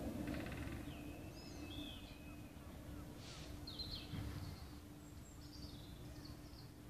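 Outdoor ambience: scattered small-bird chirps and short whistles over a low rumble and a faint steady hum.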